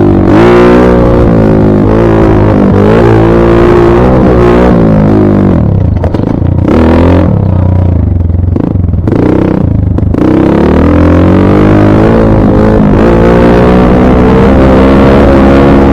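Dirt bike engine being ridden, very loud, its pitch climbing and dropping again and again as the throttle opens and closes. It eases to a lower, steadier note for a few seconds in the middle before revving up again.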